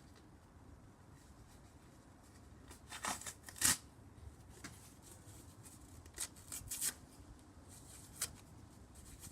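A few short, scattered rustles and light knocks of cardboard being handled, the loudest a little under four seconds in.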